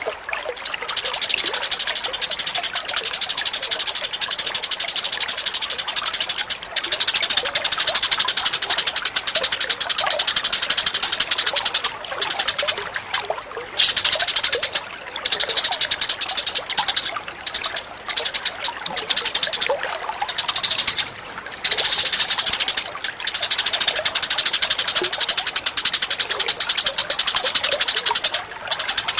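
Recorded bird song: a bird's rapid, dense, high-pitched chattering in long runs broken by short pauses, over running water.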